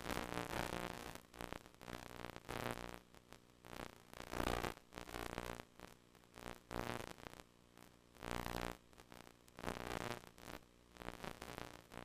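VHS HiFi audio buzzing from slightly damaged tape: a low buzz with evenly spaced overtones that swells and drops out irregularly, mixed with bursts of static hiss.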